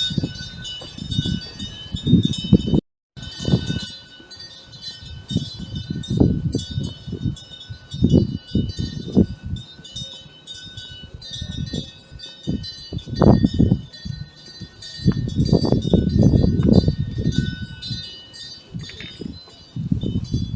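Korean temple wind bells (pungyeong, small bronze bells hung from the eaves) ringing again and again in the breeze, their tones overlapping, over gusts of wind that rise and fall. The sound cuts out briefly about three seconds in.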